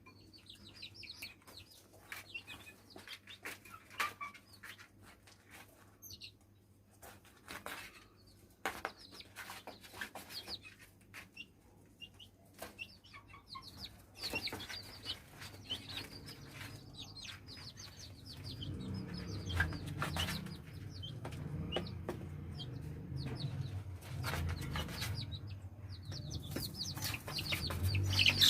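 Aseel chicks peeping in short high chirps, with scattered clicks and rustles of the birds moving and pecking. A low rumbling noise joins in the last third.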